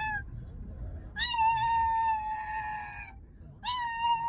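A cat yowling in long, drawn-out calls held at a steady pitch: one lasting about two seconds, then a shorter one starting near the end.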